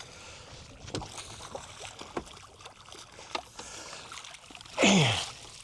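Water lapping and splashing at a boat's side as a hooked redfish is fought close in, with a few light knocks against the boat.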